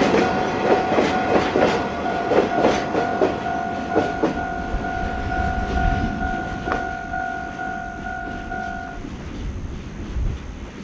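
Freight hopper wagons' wheels clicking over rail joints as the end of the train passes a level crossing, the clicks fading away over the first few seconds. A level-crossing warning bell rings steadily alongside and stops about nine seconds in, once the train has cleared.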